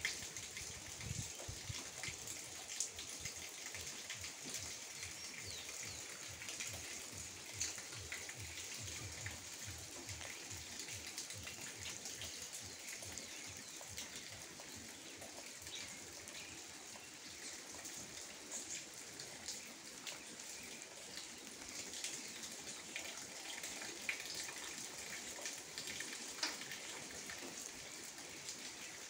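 Gentle steady rain falling, an even hiss with many small scattered drop ticks.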